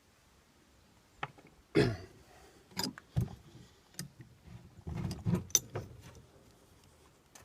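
Irregular metallic clicks and knocks of small fittings and tools being handled on the exhaust's bleed fitting, with its copper washer. The loudest knock comes about two seconds in, and a quick cluster follows around five seconds in.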